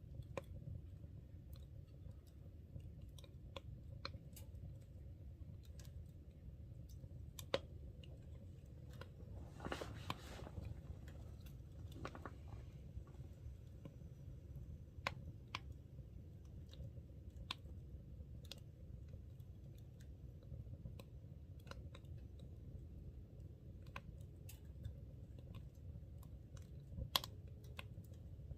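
Wood fire crackling in a wood-burning stove: scattered sharp pops and ticks over a steady low rumble, a few pops louder than the rest, and a brief hiss about ten seconds in.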